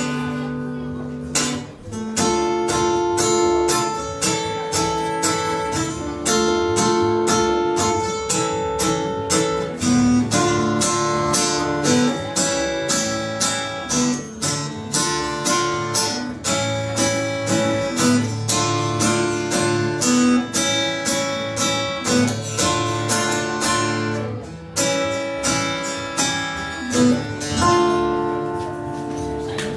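Acoustic guitar strumming chords in a steady rhythm: the instrumental close of the song, with no singing.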